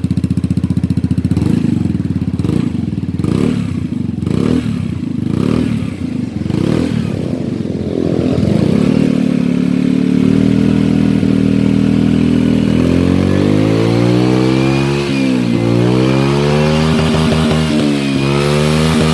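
Vespa LX 150 scooter's single-cylinder four-stroke engine through an Akrapovic racing exhaust. It idles with a quick series of short throttle blips, then is revved up and held at higher revs, dropping back and climbing again twice near the end.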